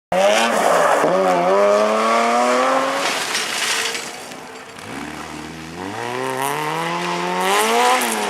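Rally car engine at high revs, starting abruptly and climbing in pitch with a gear change about a second in. It fades and drops to low revs around the middle, then climbs steadily again under hard acceleration, with tyre and gravel noise underneath.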